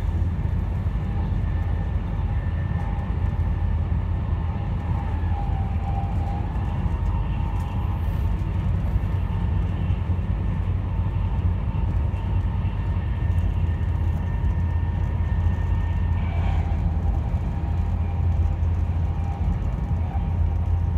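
Passenger train running at speed, heard from inside the carriage: a steady low rumble of the wheels on the rails with a faint high whine over it.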